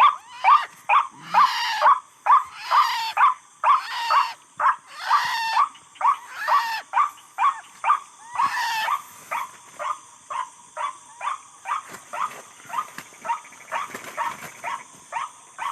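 White-breasted waterhen (ruak-ruak) calling: a long run of short, repeated croaking notes, about two a second, with a few longer, harsher notes in the first half and a softer, steadier series later on.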